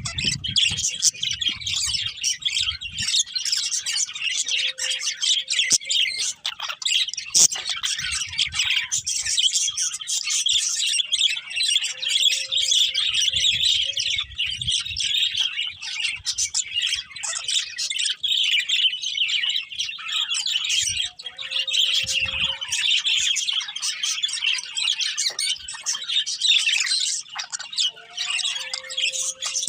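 Budgerigars chirping and chattering without pause, a dense run of quick high chirps.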